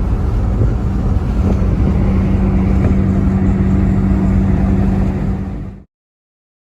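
Steady engine and road noise from inside a moving car, with a low hum, cutting off abruptly shortly before the end.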